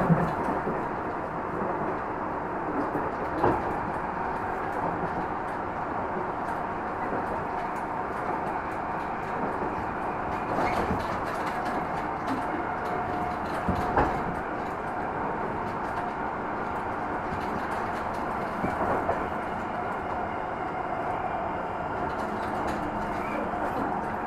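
Tobu 50050-series electric train running, heard from inside the passenger car: a steady rumble of wheels on rail with a faint level whine. A few sharp knocks from the wheels over the track stand out, one about three seconds in, the loudest near the middle, and another a few seconds later.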